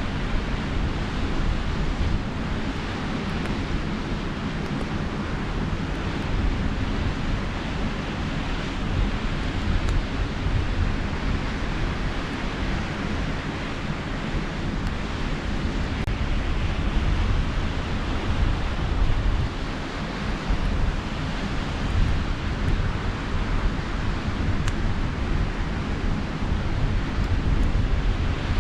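Steady sea surf with wind rumbling on the microphone, and a few faint crackles from a campfire.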